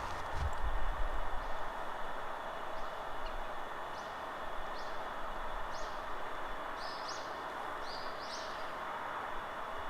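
Steady forest wind, with small songbirds giving short, high chirps that start a few seconds in and come more often and in quick pairs toward the end. A low rumble sounds in the first second or so.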